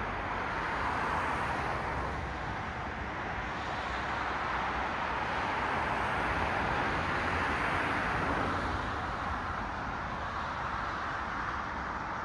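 Cars passing on a road, a steady wash of tyre and engine noise that swells as one passes about a second in and again, longer, around seven to eight seconds in.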